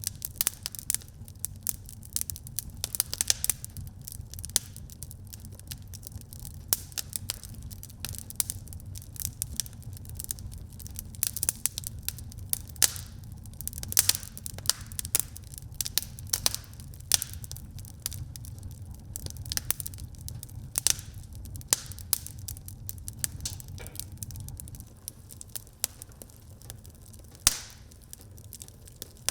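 Wood fire burning in a fireplace: irregular crackles and sharp pops from the burning logs over a low rumble of the flames, which eases about 25 seconds in.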